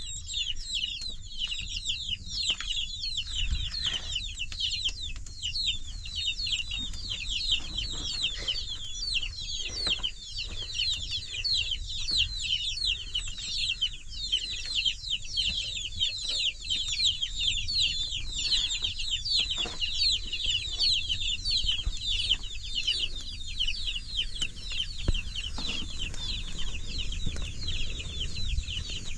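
A crowd of domestic chicks peeping without a break, many short, high chirps overlapping into one dense chorus.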